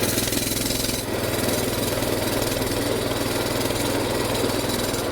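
Coleman BT200X mini bike's 196 cc single-cylinder four-stroke engine running steadily at an even pitch.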